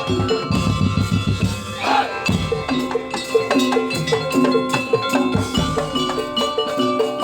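Music from a percussion band: a busy drum beat under short, repeating melodic notes, with a brief rising sound about two seconds in.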